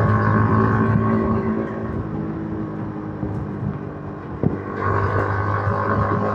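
Yamaha MT-15's 155 cc single-cylinder engine through its stock exhaust while riding. It eases off about two seconds in, there is one short knock a little after four seconds, and it pulls again on the throttle near the end.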